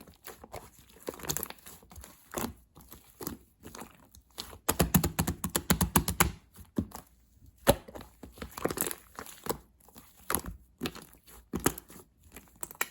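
Slime being squeezed and stretched by hand: an irregular run of sticky clicks and crackles, thickest in a dense flurry near the middle.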